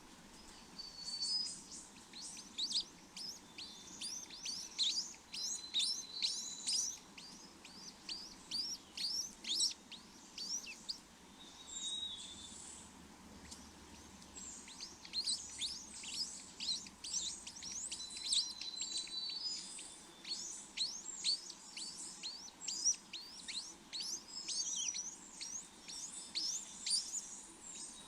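Small birds chirping: a dense run of short, high chirps that sweep downward in pitch, with a few brief level whistles mixed in. The chirping pauses for a few seconds about halfway, then picks up again.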